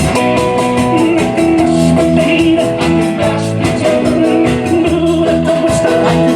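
Live rock and roll band playing, electric guitar over drums with a steady beat.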